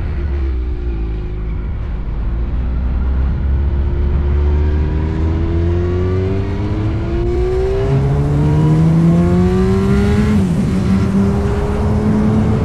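Yamaha R1 sportbike engine through an SC-Project exhaust, accelerating with its pitch rising steadily, dipping briefly about ten seconds in as it shifts up, then climbing again.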